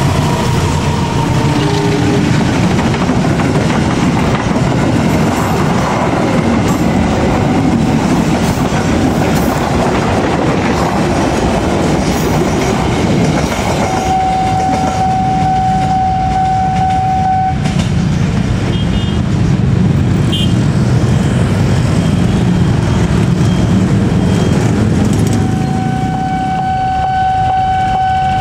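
A long passenger train hauled by a diesel-electric locomotive passing close by, its wheels rumbling steadily on the rails. A steady high tone sounds for a few seconds about halfway through and comes back near the end.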